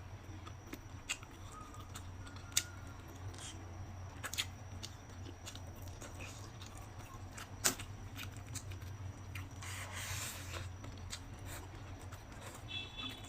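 Close-miked eating sounds: a person chewing food, with scattered sharp clicks and a brief rustling stretch about ten seconds in. A steady low hum runs underneath.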